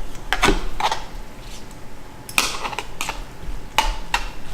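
Dishes and utensils being handled: a series of separate clinks and short scrapes, about seven in all, the loudest about halfway through.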